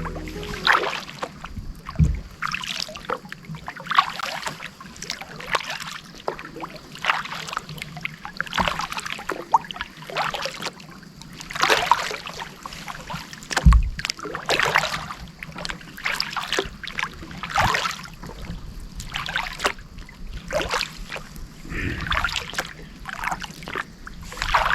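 Kayak paddle strokes in the water, a splash and drip about every second, with two low thumps, one about two seconds in and one just before halfway.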